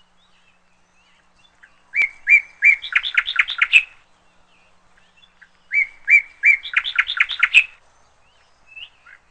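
A songbird singing the same phrase twice, each about two seconds long: a run of chirps that starts slowly and quickens into a rapid series of notes.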